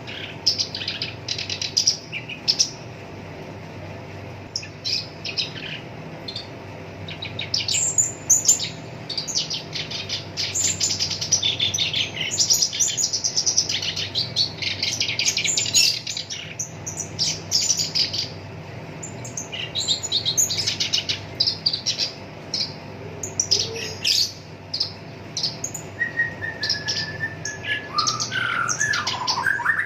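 Black-browed reed warbler singing a fast, harsh chattering song in bursts of rapid short notes, with brief pauses between phrases.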